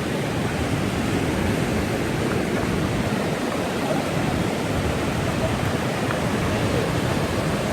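Steady rushing of a mountain creek, an even hiss at constant loudness.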